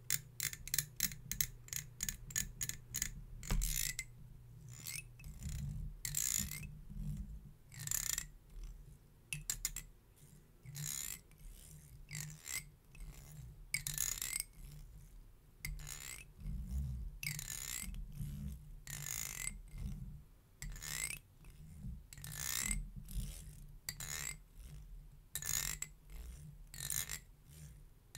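A comb being stroked for ASMR: a quick run of short strokes, then slower single strokes about one a second, each a brief bright scratch of the teeth.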